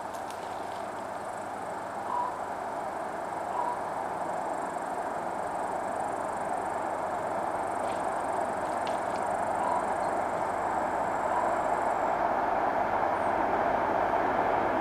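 Approaching diesel-hauled express train, TEP70 locomotive leading: a steady rushing rumble that grows gradually louder. A faint high steady whine sounds over it until about twelve seconds in.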